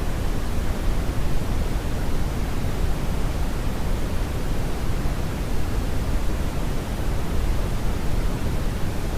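Brownian noise: a steady, even hiss-rumble with its weight in the low end, falling off toward the highs, unchanging throughout.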